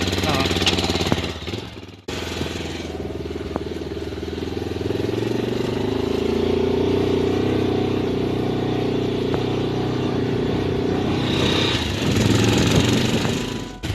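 Yamaha FZ motorcycle with a customised aftermarket exhaust running. The sound breaks off abruptly about two seconds in, runs steadily, then swells louder near the end as the throttle is blipped.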